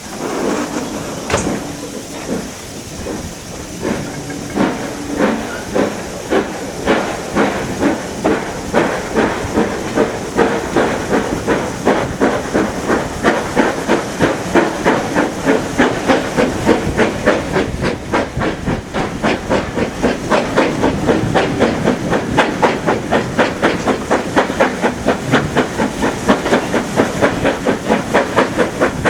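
Steam locomotive pulling away, its exhaust chuffs quickening from a slow beat to about four a second as it gathers speed, over a steady hiss of steam.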